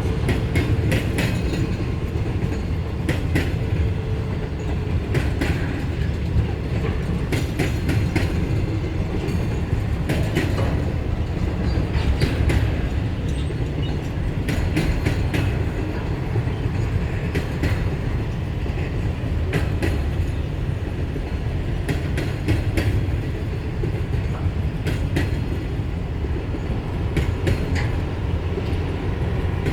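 Freight train rolling past: a steady low rumble with frequent sharp clacks of wheels over rail joints. A faint steady tone fades out a few seconds in.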